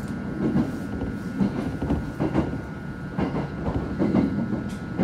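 Passenger train running at speed, heard from inside the carriage: a steady low rumble with the wheels clacking over rail joints in an uneven series of knocks, and a faint steady whine above.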